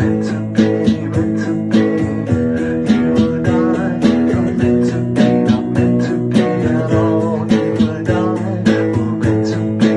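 Song with guitar, most likely acoustic, strummed in a steady, even rhythm.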